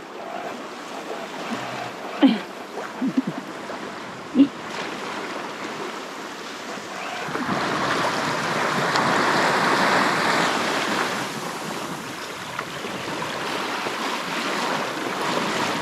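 Sea water rushing and washing along a sailboat's hull, a steady hiss that swells louder for a few seconds in the middle. A few short faint squeaks come in the first few seconds.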